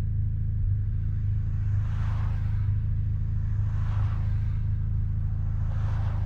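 Mazda RX-7's rotary engine running at a steady pitch through an RE Amemiya Dolphin Tail 90 Curl exhaust, a low drone heard from inside the cabin with the windows down. A hiss swells and fades over it about every two seconds.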